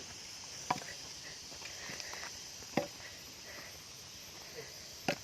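Footsteps on a jungle path, three sharp steps about two seconds apart, over a steady high chirring of insects.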